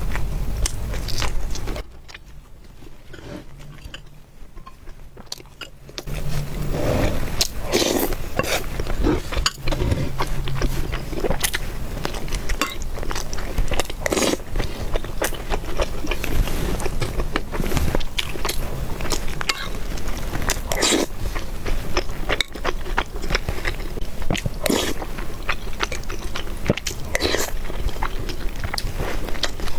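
Close-miked eating sounds of a person chewing and biting noodles and meatballs, a rapid run of sharp wet clicks and smacks. It drops to a quieter pause about two seconds in and resumes about six seconds in.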